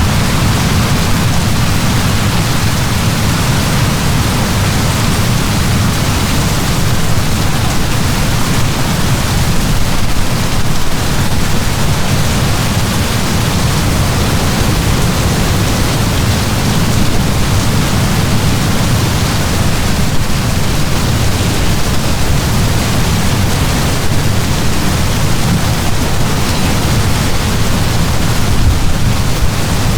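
Heavy downpour of rain, a steady dense hiss with a strong low rumble underneath and no distinct drops or thunderclaps.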